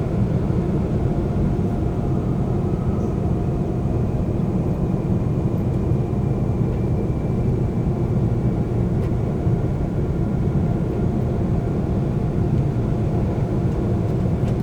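Seoul subway train in motion: a steady low rumble of wheels on the track, with faint steady whining tones above it.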